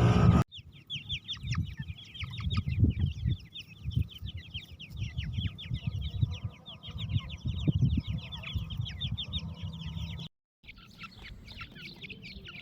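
A group of dakhni teetar partridge chicks peeping: a dense stream of quick, high, downward-sliding chirps, many a second, over low rustling and thumps. A low rumble sounds for the first half second, and the chirping breaks off briefly near the end.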